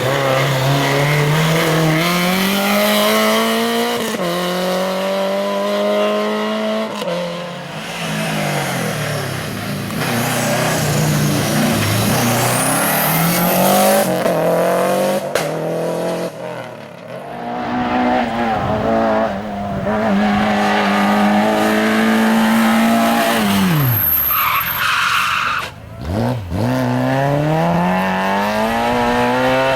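Competition car's engine at full racing throttle, its pitch climbing and dropping again and again through gear changes and braking. Near the end the note falls away steeply, then climbs again.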